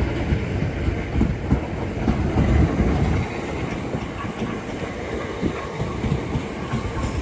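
Class 465 Networker electric multiple unit pulling through the station, its wheels rumbling and clattering over the rail joints and pointwork. The clatter is heaviest in the first three seconds and eases a little after.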